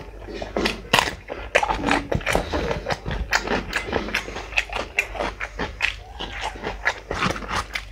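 Mouth sounds of a person eating by hand: wet chewing and lip smacking, heard as a quick, irregular run of clicks, with bites into a fresh green chili.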